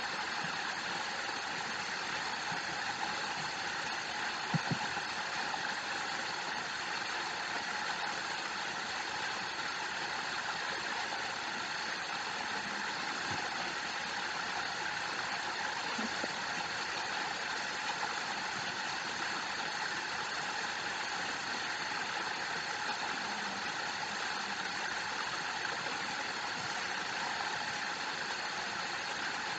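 Waterfall: water falling and rushing in a steady, unbroken hiss, with a brief click about four and a half seconds in.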